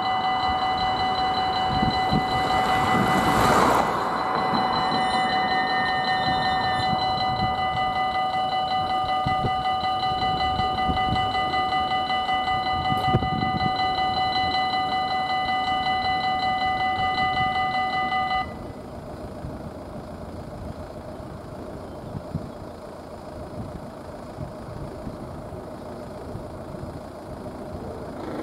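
Level crossing warning bell ringing steadily while a local train passes, its noise swelling to a peak about three seconds in. The bell cuts off suddenly about two-thirds of the way through, leaving a quieter background with idling engines.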